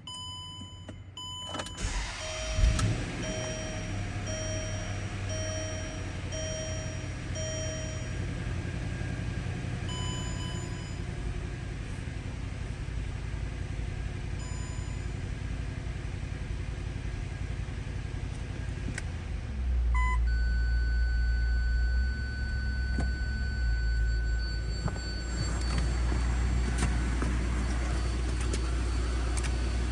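A 2008 Range Rover's 4.4-litre V8 cranks and starts about two seconds in, then runs steadily at idle. A run of about seven evenly spaced beeps sounds just after the start, and about two-thirds of the way through the running gets louder and deeper, with a short beep and then a steady tone.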